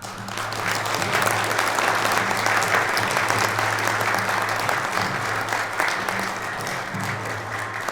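Audience clapping, swelling over the first second and then holding steady before easing off near the end. Soft background music with low sustained notes plays underneath.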